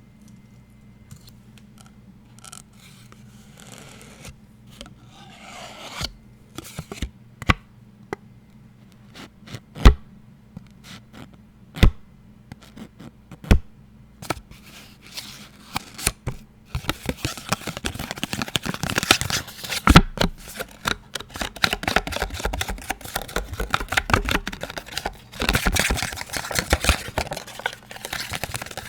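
Close-miked ASMR tapping and scratching on an unidentified object: faint rubbing at first, then separate sharp taps, then from about halfway a dense run of fast scratching and tapping.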